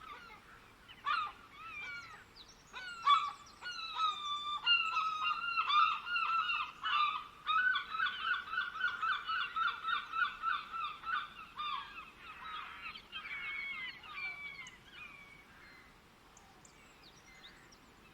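Birds calling: repeated downward-slurred calls that quicken into a fast run of about four a second in the middle, then fade away over the last few seconds.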